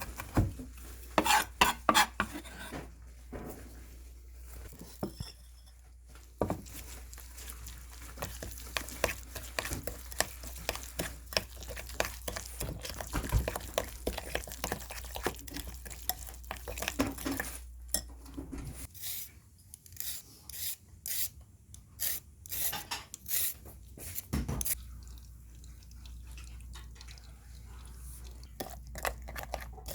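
Kitchen utensils clinking and scraping against bowls and dishes, with stirring, while the seasoning for braised dried pollock is prepared.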